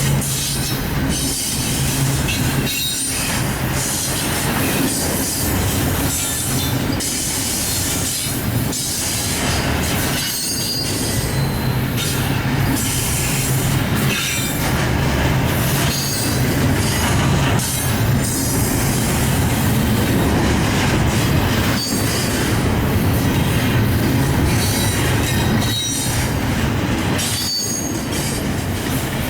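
Union Pacific train rolling past, its wheels running on the rails with intermittent high-pitched squeals over a steady low rumble, the noise dipping briefly every few seconds.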